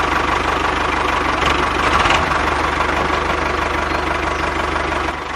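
An engine running steadily at idle, with a fast, even putter.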